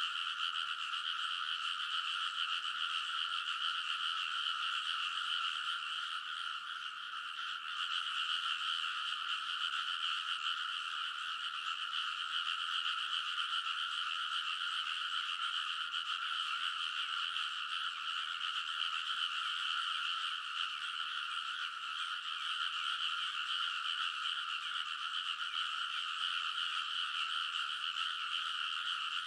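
Loud chorus of many frogs calling at once, a dense overlapping croaking that never pauses. It thins slightly for a moment about six to eight seconds in.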